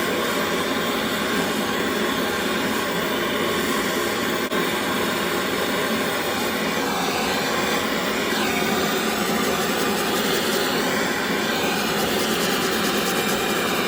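Gas blowtorch flame burning with a steady, unbroken rushing hiss, heating a rusted, seized fitting so it can be freed.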